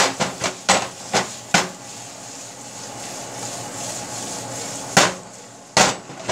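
Copper-coloured frying pan of Wagyu beef being shaken and tossed on a gas stove: a quick run of knocks as the pan strikes the grate, then steady sizzling, then two more knocks near the end.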